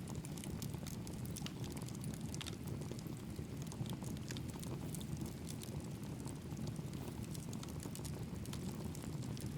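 Wood campfire crackling, with many scattered sharp pops and ticks over the steady low rush of a mountain stream.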